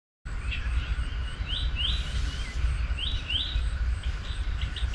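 Birds chirping in short rising calls, often two in quick succession, over a steady low rumble; the sound starts abruptly a moment in after silence.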